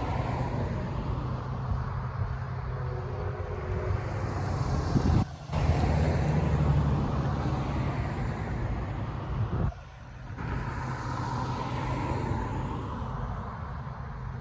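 Steady low engine rumble with vehicle and road noise, broken by two brief dropouts about five and ten seconds in.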